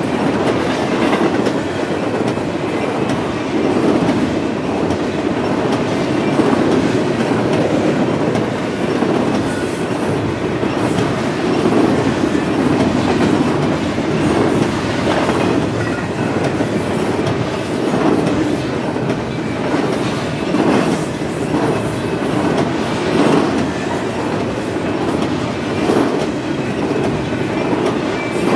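Double-stack intermodal freight train of container well cars rolling past: a steady rumble of steel wheels on rail, with the wheels clacking over the track every two to three seconds.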